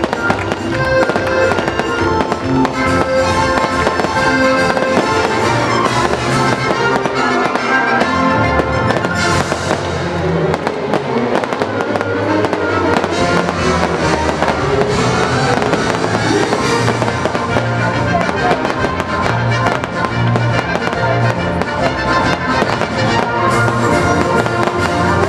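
Fireworks bursting and crackling over a loud music soundtrack, with many sharp bangs throughout.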